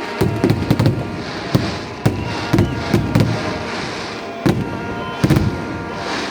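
Fireworks bursting overhead in an irregular series of sharp bangs, some in quick clusters of two or three.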